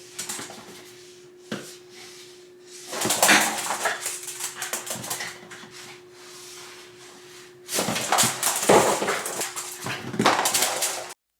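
A dog making noises close by, in two noisy bursts, one about three seconds in and the other near the end, over a faint steady hum.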